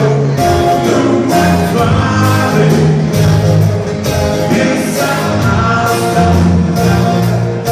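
A band playing a song, with singing over a steady beat of drums, bass and guitar.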